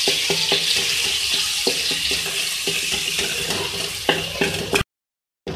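Paste frying in hot oil in a wok, with a steady sizzling hiss, while a wooden spatula stirs and scrapes it with small knocks. The sound cuts out suddenly near the end.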